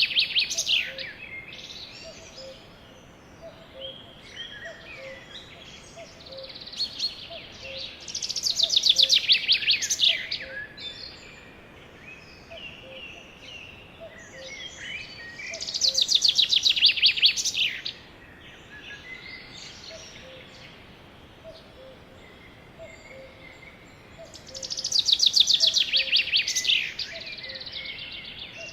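Sparrow singing: a loud, rapid trilled song of about two seconds, repeated about every eight seconds, with softer chirps between the songs.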